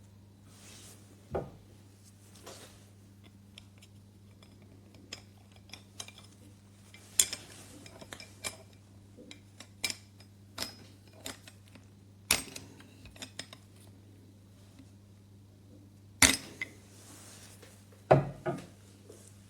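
Irregular clicks, knocks and clinks of hard objects being handled and set down, several sharp knocks standing out, over a steady low electrical hum. No grinder motor runs.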